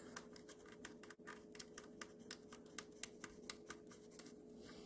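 Faint, irregular clicking and scratching of a small metal pick working in a corroded relay socket, digging out corrosion and broken terminal pieces. A faint steady hum sits underneath.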